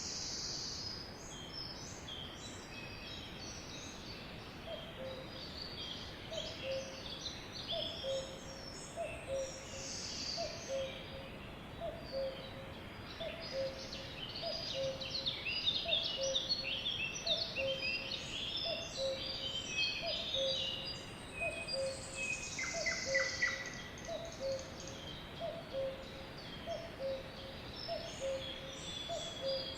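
Sparrows chirping, many short overlapping high chirps with a few falling whistles. From about five seconds in, a low two-part call repeats steadily about every one and a half seconds beneath them.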